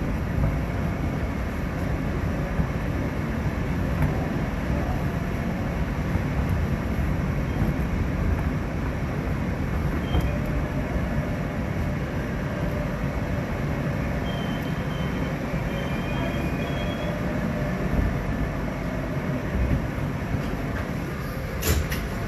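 New York subway car running along the N line's elevated track, heard from inside the car: a steady rumble of wheels on rails, with a faint high wheel squeal for a few seconds past the middle and a sharp click near the end.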